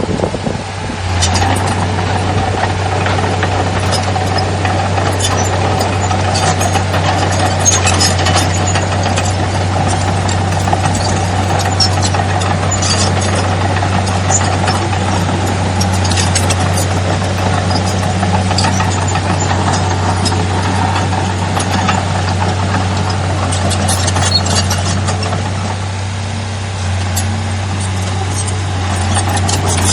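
Heavy earthmoving machinery's diesel engine running steadily, with scattered metallic clanks and knocks. The engine dips briefly about 25 seconds in, then picks up again.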